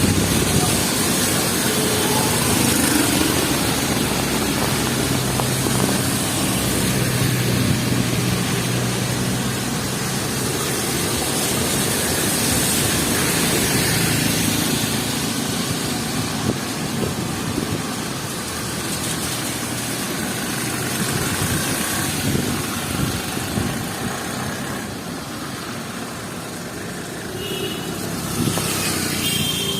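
City street traffic in heavy rain: a vehicle engine running close by over a steady hiss of rain, fading somewhat in the second half.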